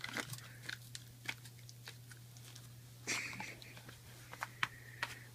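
Dog chewing and biting at something, with scattered clicks and a short rustling burst about three seconds in, over a steady low hum.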